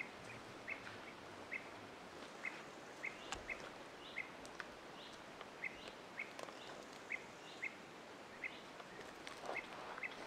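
A bird calling short, sharp chirps over and over, about one or two a second at an uneven pace, over a steady background hiss of the woods. Near the end a louder rustling sets in.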